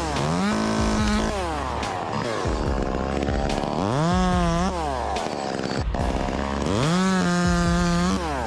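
Two-stroke chainsaw engine revved up to full throttle three times. Each time the pitch climbs to a held high whine, then drops back toward idle.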